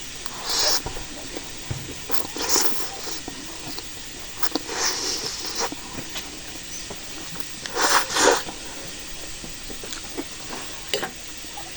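Close-up mouth sounds of someone eating hot, spicy Current instant noodles: a handful of short, noisy sucking sounds a second or two apart, the loudest a double one about eight seconds in.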